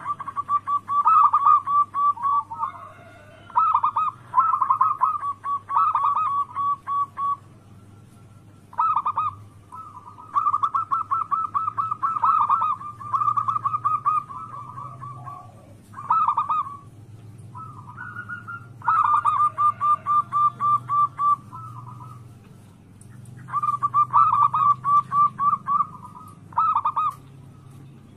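Zebra doves (perkutut) of the local type cooing: phrase after phrase of quick, pulsed coo notes, with short pauses between the phrases. A steady low hum runs underneath.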